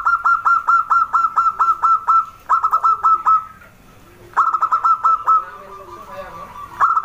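Zebra dove (perkutut) singing: runs of rapid, short cooing notes at about five a second, coming in four bursts, the first about two seconds long, each followed by softer, lower notes.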